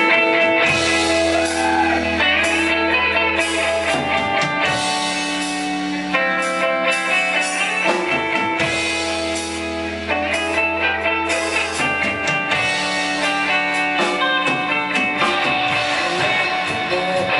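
Rock band playing an instrumental passage live: guitar chords that change every couple of seconds over bass and drums.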